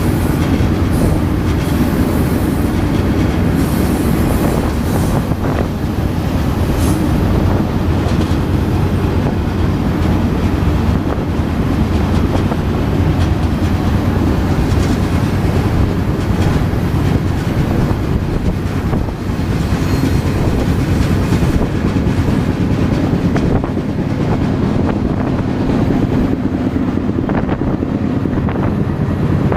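Moving freight train heard from aboard a car: a steady heavy rumble with the wheels clicking and clacking over the rails.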